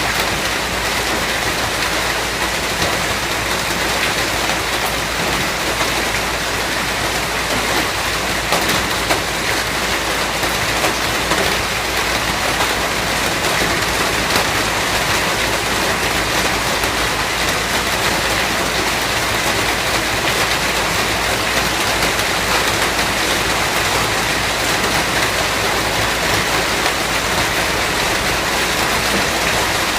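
Steady heavy rain falling, a dense even hiss of drops on a surface with no breaks.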